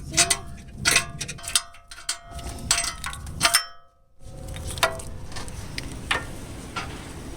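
Hard metal objects clanking and clinking against each other in a quick irregular run of knocks, then a brief dropout about four seconds in, followed by a few more scattered clinks.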